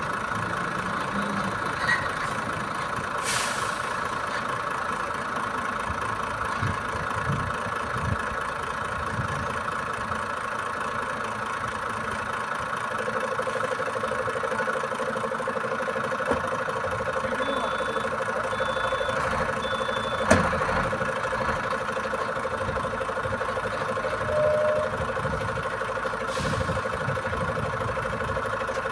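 Boom truck's diesel engine running steadily. A steady whine joins about halfway through, and there is a sharp knock about two-thirds of the way in and three short high beeps.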